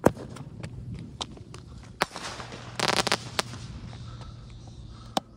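Consumer fireworks: a sharp pop as a shell launches, then a dense burst of crackling about three seconds in, with scattered pops before and after.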